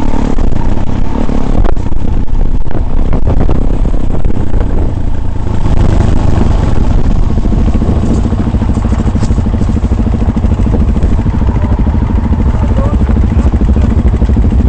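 Off-road vehicle engine running steadily while under way, with loud low rumble and rattling knocks over rough ground in the first few seconds.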